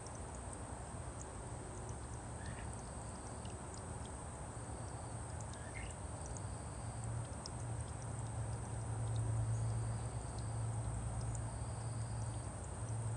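Outdoor ambience: a steady low rumble and hiss, the rumble swelling in the middle, with a few faint short rising bird chirps and brief high peeps.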